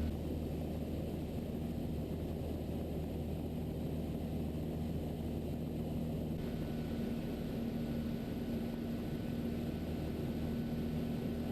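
Mooney M20E's four-cylinder Lycoming engine and propeller droning steadily in flight, heard inside the cabin.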